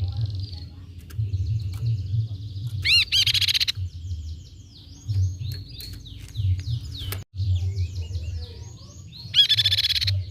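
Crescent-chested babbler (tepus pipi perak) calling: runs of quick down-slurred whistled notes, broken by two louder, rapid bursts about three seconds in and near the end.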